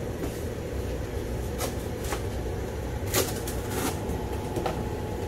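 A few light clicks and knocks of hand work on a tire pressure (TPMS) sensor being pushed into a wheel, which is a tight fit, over a steady low hum.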